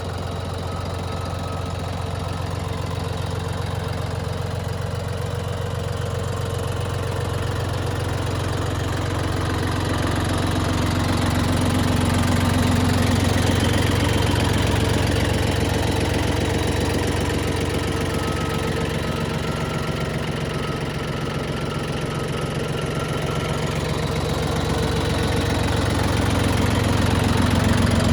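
Yanmar YM1820D compact tractor's three-cylinder diesel engine running steadily, getting louder about ten seconds in and again near the end.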